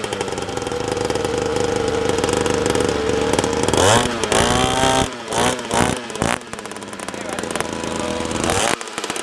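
Small two-stroke 85cc dirt bike engine running at a steady pitch for about the first three and a half seconds, freshly started after many kicks; after that the engine sound breaks up among shorter rising and falling sounds.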